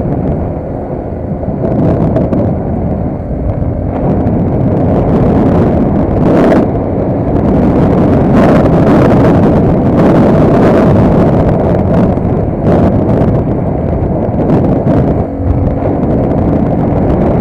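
Vehicle driving along, with steady engine and road noise and wind on the microphone. A few short knocks come through it.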